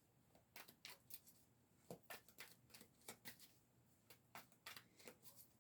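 Faint, irregular soft clicks and flicks of tarot cards being shuffled and handled.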